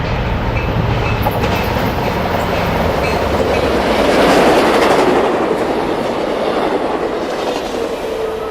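A train passing close by at trackside: a steady rumble with wheels clattering over the rail joints, loudest about four to five seconds in.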